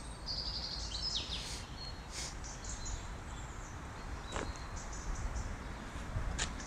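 Small birds chirping, a quick high trill in the first second and a half and short calls later on, over a low steady background rumble.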